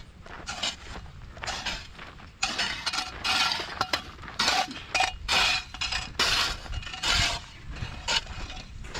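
Hand tool scraping and chopping through gritty infield dirt and weeds: a series of uneven scraping strokes, about one a second, running closer together in the middle.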